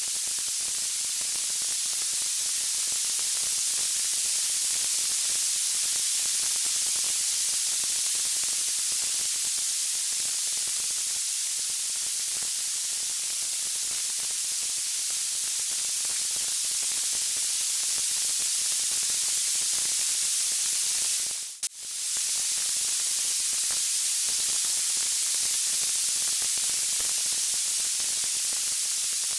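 Steady high-pitched hiss of white noise, like radio static, with no crackles or pops. It dips out for a split second about two-thirds of the way through, then resumes unchanged.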